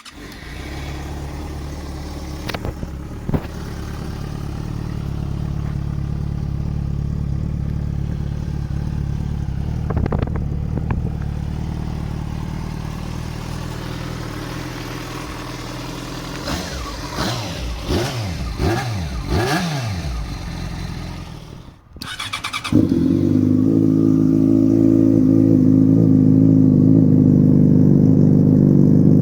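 Yamaha FZ6 S1's inline-four engine running through a DominatoR GP exhaust with no dB killer, catalytic converter still fitted. It idles steadily, then is blipped several times between about 16 and 21 seconds, the revs rising and falling each time. After a brief break it runs louder and steady at higher revs.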